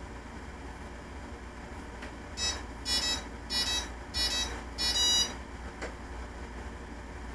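Hobby King Nova quadcopter beeping electronically: five short tonal beeps about 0.6 s apart starting a couple of seconds in, the last the loudest, over a steady low hum.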